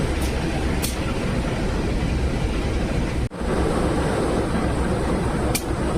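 Passenger train running along the track: a steady low rumble with a few faint short hisses, and the sound briefly cuts out a little after three seconds.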